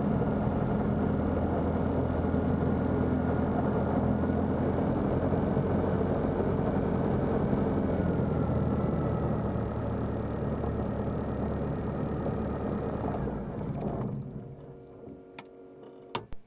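Light aircraft engine and propeller droning steadily in the cockpit of a Zenith CH 750 Cruzer in flight. The pitch eases slightly about halfway. About 13 seconds in the drone cuts off abruptly, leaving low background sound with a couple of faint clicks.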